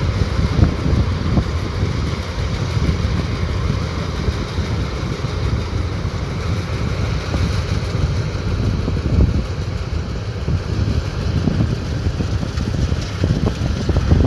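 Rice combine harvester running steadily, its engine and machinery making a continuous mechanical noise.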